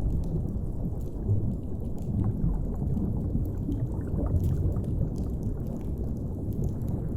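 Muffled underwater ambience: a steady deep rumble of moving water, with faint, scattered crackles from a fire on top.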